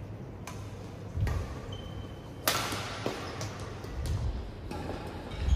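Badminton rackets striking a shuttlecock in a rally: a string of sharp hits about half a second to a second apart, the loudest about two and a half seconds in.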